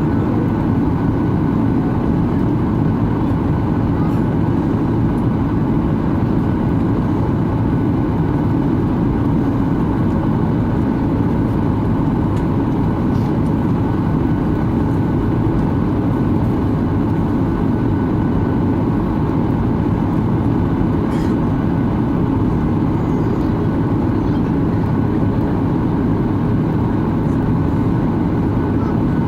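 Steady roar of engines and rushing air inside the passenger cabin of a Boeing 737-800 in flight on its landing approach.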